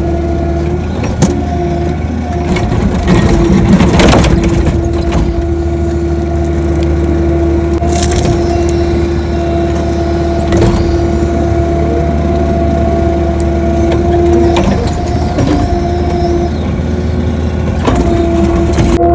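Excavator running under load, its engine humming steadily with a steady whine over it that dips now and then, while the bucket works dirt with scattered cracks and knocks, the loudest a few seconds in and again about halfway through.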